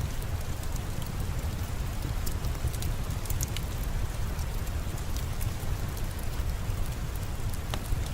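Steady rain falling, an even wash of noise with a deep low rumble underneath and scattered sharp little ticks throughout.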